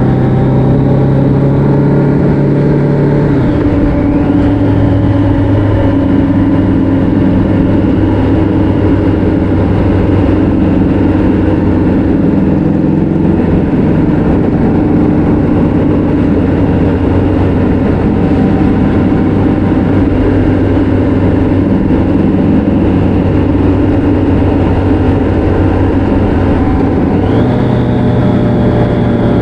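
Motorcycle engine running steadily on the road, with wind rush; its pitch drops about three and a half seconds in and rises again near the end.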